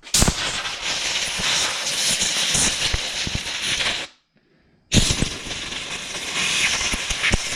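Two long blasts of compressed air hissing from a blowgun as carburetor parts are blown out after soaking in parts cleaner: the first lasts about four seconds, and the second starts after a short pause and lasts about two and a half seconds.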